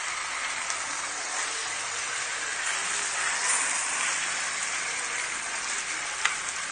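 Chicken pieces steadily sizzling as they brown in hot oil in a clay tagine, with a single sharp clink of a spoon about six seconds in.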